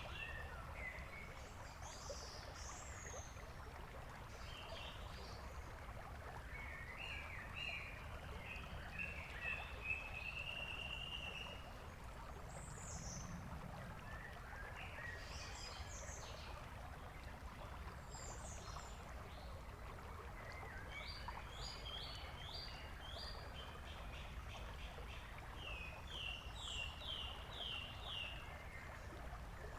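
Faint songbirds chirping, with several quick trilled series of notes, over a steady low background hiss.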